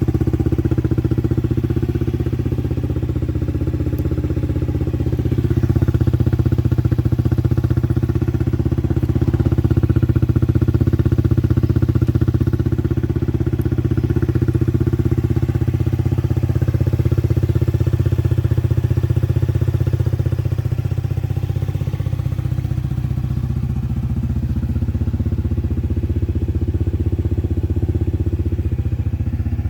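Honda Zoomer-X scooter's single-cylinder four-stroke engine idling steadily through a Moriwaki aftermarket exhaust.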